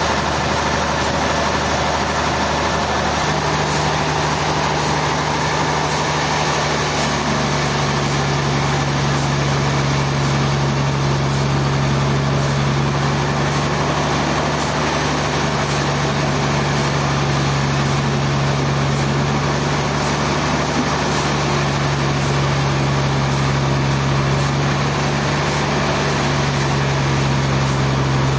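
Heavy sawmill machinery running steadily: a continuous engine drone whose low hum steps up in pitch a few seconds in.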